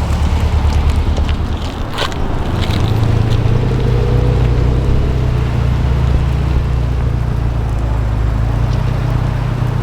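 Car engine running steadily at low revs, a deep even drone, with a short sharp click about two seconds in.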